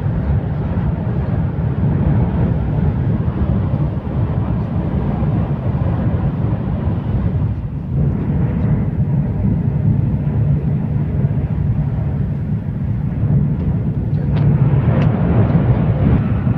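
Steady, loud rumble and rush of a Jakarta–Bandung high-speed train running at speed, heard inside the passenger cabin; it swells slightly near the end.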